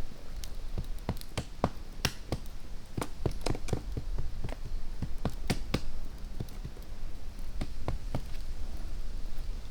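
A series of sharp taps and knocks at an uneven pace, closely spaced for the first few seconds and thinning out toward the end.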